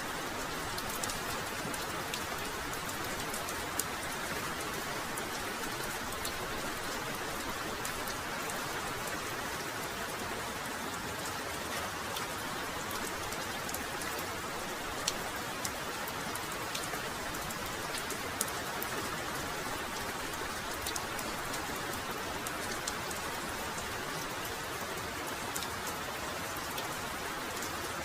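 Heavy rain falling steadily, a dense even hiss with scattered sharp drops ticking close by.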